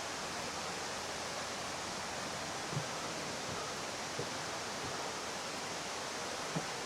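Running water from a waterfall, a steady even rush, with a few faint soft thumps.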